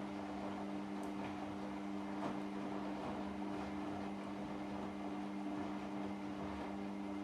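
Washing machine running mid-cycle: a steady two-tone motor hum over an even swishing noise.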